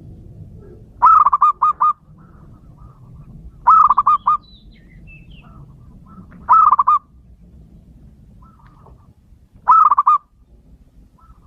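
Male zebra dove (perkutut) cooing: four phrases about three seconds apart, each a quick run of several short, pitched notes.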